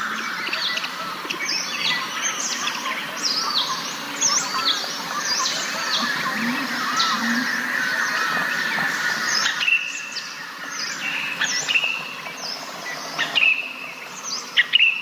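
A chorus of many wild birds chirping and calling over one another, with short, quick, falling chirps repeated again and again. The mix of calls shifts about two thirds of the way through.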